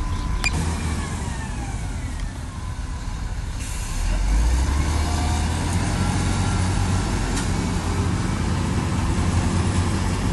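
Heavy diesel construction machinery running, its low engine rumble getting louder about four seconds in as it works harder, with a few faint high squeals sliding down in pitch.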